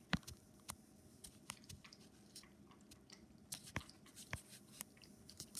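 A cat eating wet food from a bowl: faint, irregular chewing clicks.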